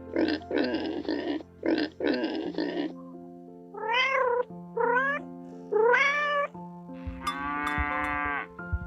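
A cat meowing three times, each meow rising and then falling in pitch, over steady background music. In the first few seconds, before the meows, another animal makes a few short, rough calls.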